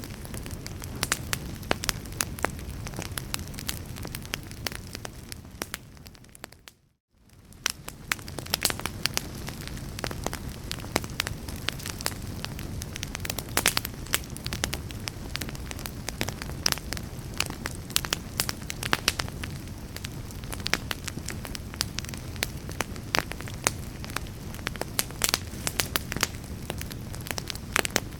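Wood fire in a fireplace crackling and popping, with frequent sharp snaps over a low steady rumble of the flames. About seven seconds in, the sound briefly fades out to silence and then fades back in.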